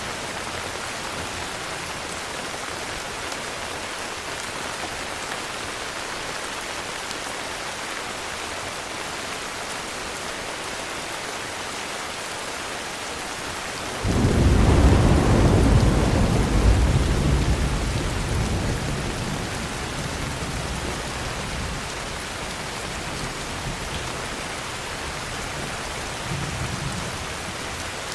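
Steady heavy rain. About halfway through, a thunderclap starts suddenly and rumbles away over several seconds, with a fainter rumble near the end.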